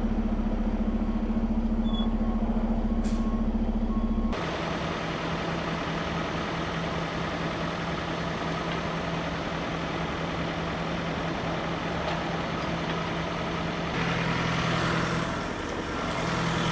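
Heavy truck diesel engine running steadily at idle. Its pitch and character shift abruptly about four seconds in and again near the end.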